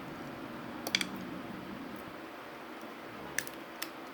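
Eating sounds close to the microphone: quiet chewing and mouth squishes, with a few sharp clicks, a quick double click about a second in and two more near the end.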